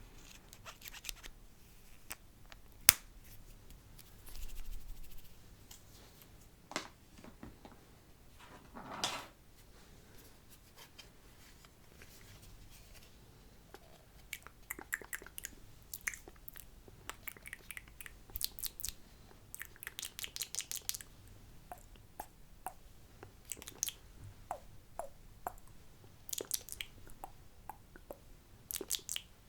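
Close-miked wet mouth sounds: scattered sharp clicks, lip smacks and short crackly bursts, thickening into quick runs of clicks in the second half, with one especially sharp click about three seconds in.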